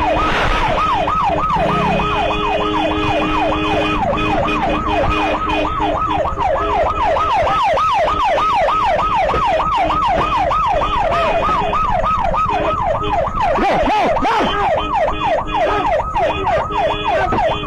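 Police siren in a fast yelp, its pitch sweeping up and down about three times a second. In the last few seconds there is a string of sharp knocks.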